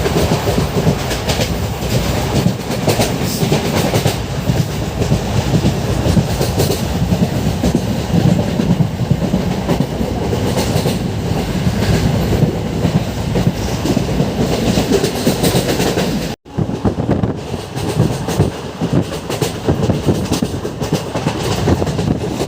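Passenger express train running on the line, its wheels clacking steadily over the rail joints. The sound breaks off for an instant about two-thirds of the way through, then carries on.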